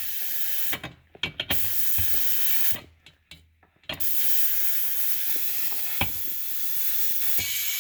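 A handheld gas torch flame hissing steadily as it heats a dent in a pressurized two-stroke exhaust pipe. The hiss drops out twice for about a second, with a few clicks.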